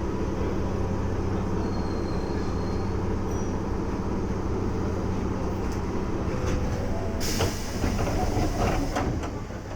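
Keisei 3400 series electric train heard from on board, a steady low electrical hum under running noise. About seven seconds in comes a loud hiss of air with a few knocks, then the sound dies down.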